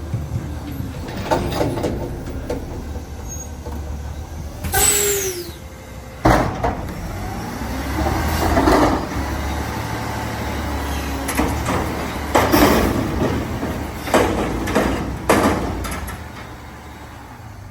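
Refuse truck working, its engine a steady low rumble under a series of loud hisses, clanks and squeals. One squeal falls in pitch about five seconds in, and the engine fades away near the end.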